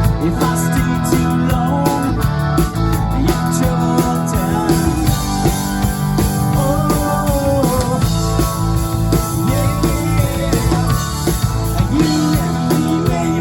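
A rock band playing, with a drum kit keeping a steady beat under guitar and bass, and a melody line that bends in pitch through the middle.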